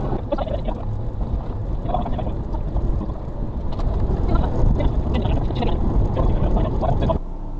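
Suzuki Carry kei truck's 660cc three-cylinder engine running under load, heard inside the cab, with scattered knocks and scrapes as it drives a rough muddy track. The rumble drops off suddenly near the end.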